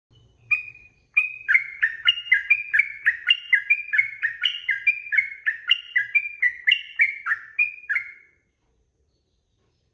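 Yellow-vented bulbul (trucukan) singing a long, fast run of bubbly chirping notes, about three a second, alternating high and low, after a single opening note. The song stops abruptly near the end.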